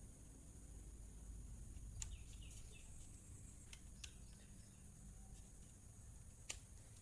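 Near silence: quiet background with a steady high insect-like drone and a few faint bird chirps, broken by a few small sharp clicks, the loudest near the end.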